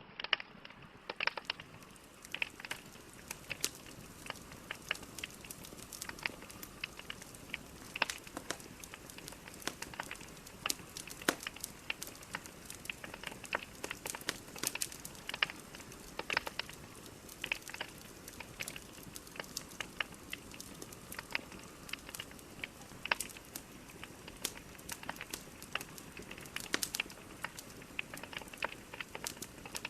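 Wood fire burning in a fireplace, with a steady soft hiss and frequent irregular crackles and pops from the logs.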